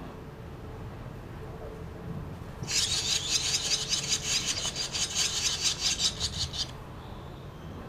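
Barn swallows calling: a burst of rapid, high-pitched chattering that starts about two and a half seconds in and stops about four seconds later.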